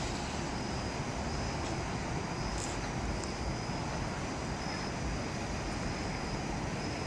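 Steady low rumble of a departed Long Island Rail Road train fading into the distance, with a faint high-pitched whine coming and going.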